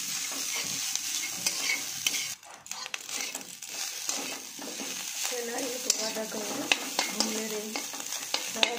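Grated coconut frying in ghee in a pan with a steady sizzle, being stirred. In the second half the utensil ticks sharply against the pan.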